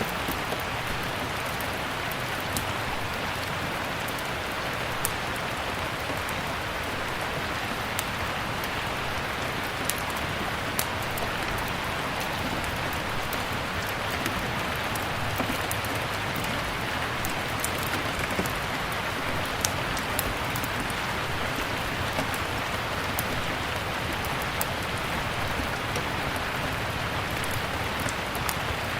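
Steady rain falling, an even hiss, with sharp irregular pops and snaps scattered through it from a crackling log fire.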